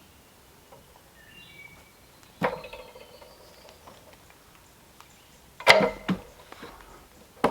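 Two sharp knocks that ring briefly, about three seconds apart, with a few lighter clicks between them.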